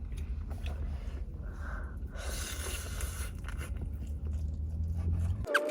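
Biting into and chewing a piece of crispy fried chicken dipped in sauce, with a crunchy stretch about two seconds in. A steady low hum runs underneath and cuts off near the end.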